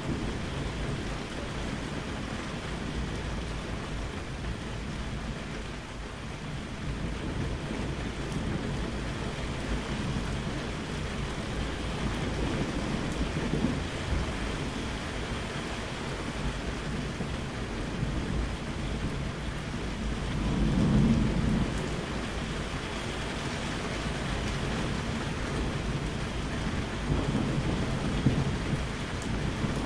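Steady rain with thunder rumbling low in the background, swelling several times, loudest a little past the middle.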